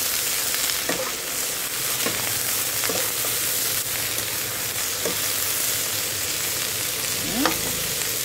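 Pork belly, snow peas and carrots sizzling steadily in a frying pan, stirred with a metal spatula that scrapes the pan a few times, with a louder scrape near the end.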